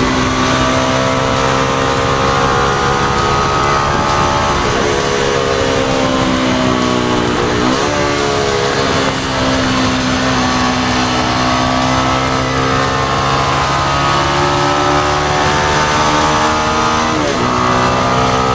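2018 Motorstar Z200S motorcycle's 200cc engine running under way, its note rising and falling with road speed and dropping sharply at gear changes three times: around five seconds, eight seconds and just before the end.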